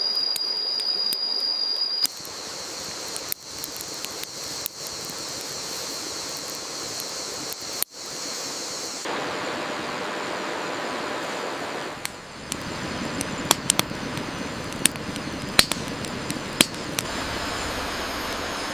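A steady hiss of rain with a high, steady insect trill over it for the first two seconds. The hiss changes character abruptly several times, and from about two-thirds of the way in sharp pops and clicks sound over it.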